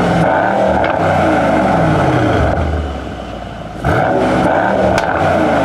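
Mercedes-AMG E63 S 4Matic's 4.0-litre twin-turbo V8 being free-revved through its quad exhaust: the revs fall away from a blip, and just before four seconds in a second sharp blip rises fast and then falls back. A single sharp crack comes about five seconds in.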